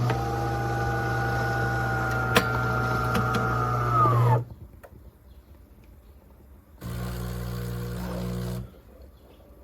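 De'Longhi Magnifica Start espresso machine running with a loud steady hum and a whine for about four seconds, the whine dropping in pitch as the motor winds down. After a pause a second, shorter hum of about two seconds starts and stops.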